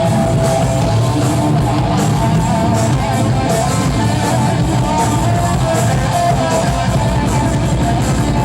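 A live rock band playing loud, with electric guitar and drums.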